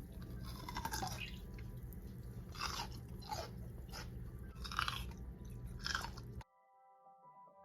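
Close-up crunching and chewing of firm, cold grapes, about five crisp bites spread over several seconds. Near the end the sound cuts off abruptly and soft keyboard-like music begins.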